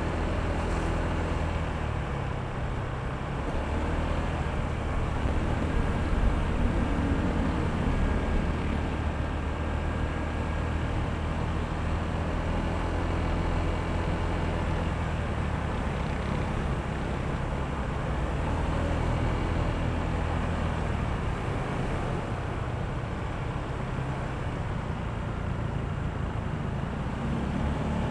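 Honda ADV160 scooter's single-cylinder engine running steadily under way, mixed with wind and road noise, a little louder about six to eight seconds in.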